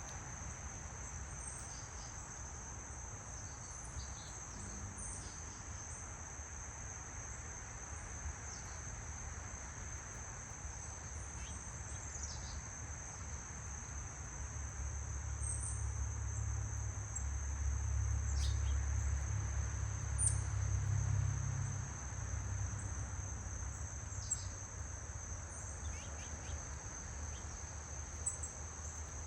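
Insects trilling in one steady, high-pitched chorus, with a few short bird chirps scattered through it. A low rumble builds in the second half, is loudest around two-thirds of the way through, and drops off abruptly soon after.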